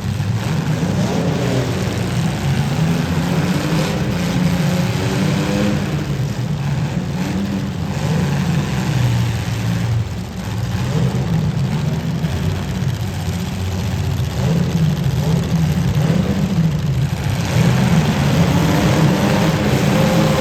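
Demolition derby car engines running loud and revving, their pitch rising and falling throughout.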